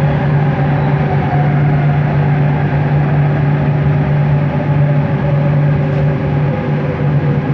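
Bombardier Innovia ART 200 train running, heard inside the car: a steady low hum and a higher steady tone from the linear induction motors over even rolling noise.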